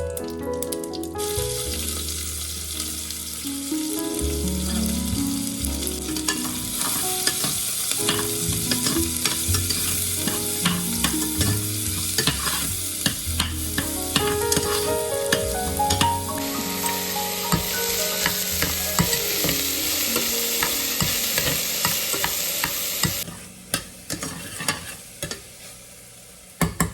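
Food sizzling and frying in a hot pan, with scattered clicks of stirring. The sizzle grows brighter about two-thirds of the way through and stops suddenly near the end. Soft background music plays throughout.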